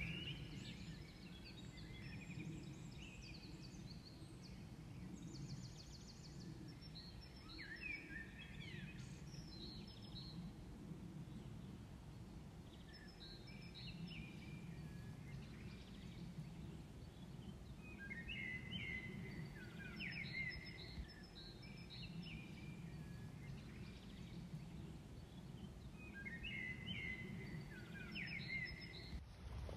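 A songbird singing short, varied chirping phrases every few seconds over a faint, steady low rumble.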